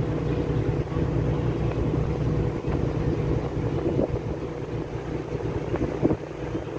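An engine running steadily with a low drone, and wind buffeting the microphone.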